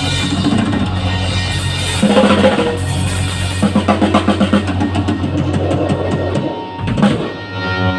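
A live rock band playing an instrumental passage on electric guitar, bass and drum kit. There is a quick run of drum hits about halfway through and one loud hit near the end.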